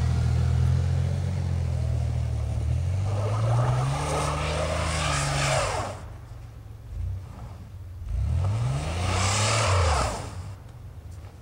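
GMC Jimmy's engine revving twice as it drives the trail: the pitch climbs for a few seconds and drops off about six seconds in, then climbs sharply again about eight seconds in and falls away near the end. A rushing hiss rises with each rev.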